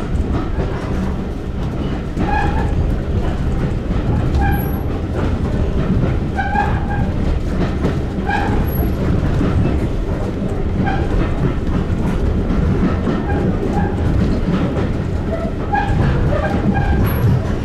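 Diesel-hauled heritage passenger train running along the line, heard from inside the coach: a steady rumble of wheels on the rails, with scattered short higher-pitched squeaks.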